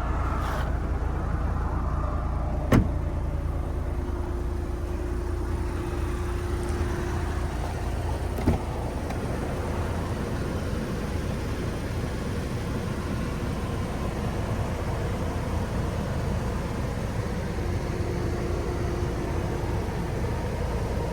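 The trunk lid of a 2022 Cadillac CT4 shut with a single sharp thump, over a steady low rumble. A second, softer knock follows about eight seconds in.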